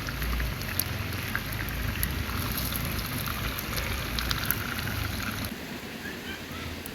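Running river water as a steady hiss, with scattered sharp crackles over it. A low rumble drops away about five and a half seconds in.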